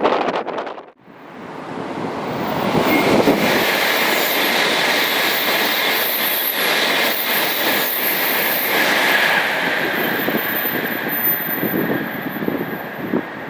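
Shinkansen Series 500 bullet train passing at speed: a rushing noise of wind and wheels builds over a second or two, holds steady with a high whine over it, and eases off near the end.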